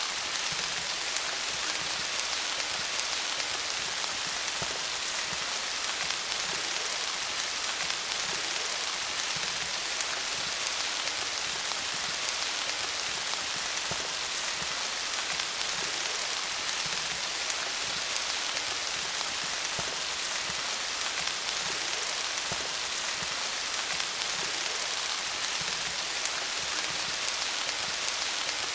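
Steady rain falling on leaves, a continuous patter of many small drops.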